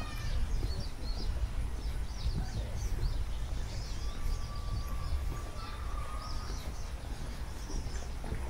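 Small birds chirping in quick, repeated short notes, with a thin held whistle in the middle, over a steady low outdoor rumble.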